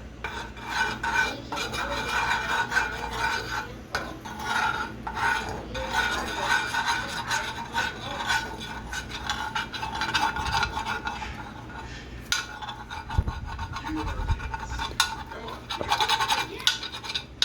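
A utensil scraping and stirring around a pan in repeated, irregular strokes, with a few dull bumps about three quarters of the way through.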